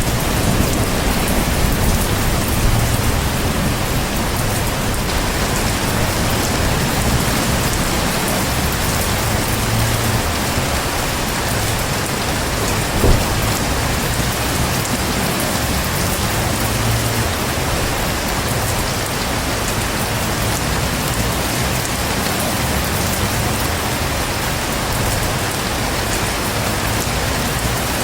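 Heavy rain falling steadily, with low rumbles of distant thunder swelling and fading a few times. One sharp tap stands out about halfway through.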